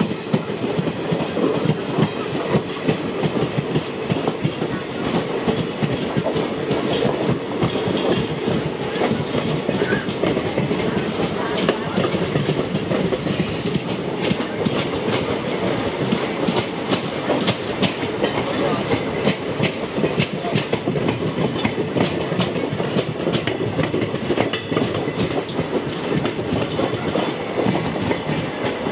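Indian Railways passenger coaches running at speed, wheels clattering over rail joints with a steady rush of running noise. It is heard from the window of a moving coach, with a second train running close alongside on the next track. The clicks come thicker from about halfway through.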